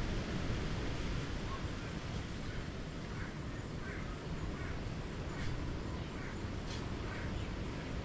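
A bird calling in a run of short repeated notes, about two a second, starting about two and a half seconds in, over a steady low rushing background.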